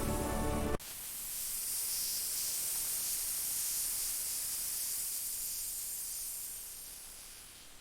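A pitched, music-like sound cuts off abruptly under a second in. A steady high hiss follows and fades away toward the end.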